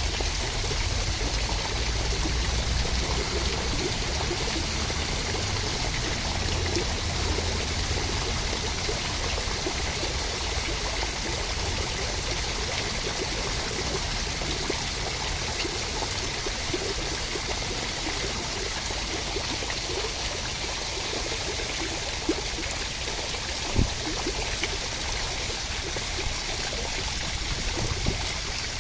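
Steady rain falling, an even unbroken rushing hiss, with a couple of sharp ticks late on.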